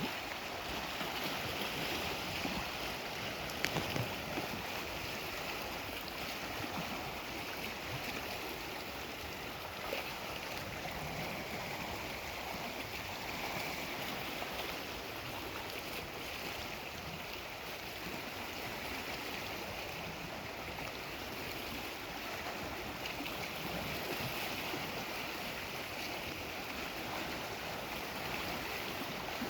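Steady wash of Lake Superior waves on the shore, with a few faint clicks about four seconds in.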